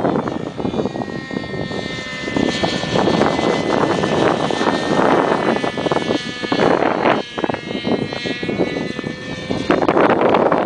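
Hirobo Shuttle radio-controlled helicopter's small glow engine whining steadily in flight, heard through heavy wind buffeting on the microphone. Near the end the engine fades and the wind noise takes over.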